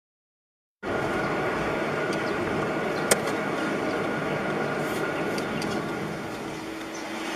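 Steady engine and road noise of a car driving, picked up by a dashcam microphone inside the car, starting abruptly about a second in, with one sharp click about three seconds in.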